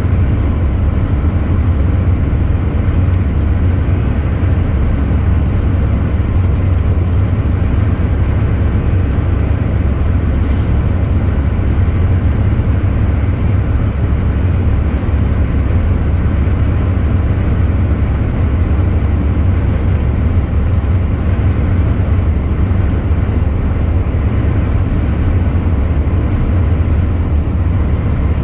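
Truck engine and road noise, a steady low drone heard while driving at constant speed.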